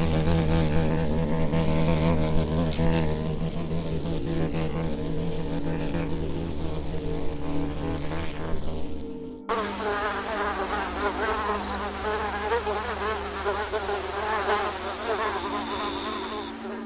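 Insects buzzing, with an abrupt change to a different, higher, wavering buzz about halfway through.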